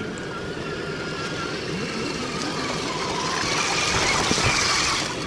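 Whine of RC crawler trucks' electric motors and gears as they drive, getting higher and louder in the second half.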